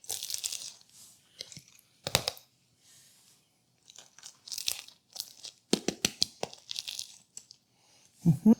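Pesto being spread over toasted ciabatta: the crisp crust crunches and scrapes in short, irregular strokes, with small clicks between.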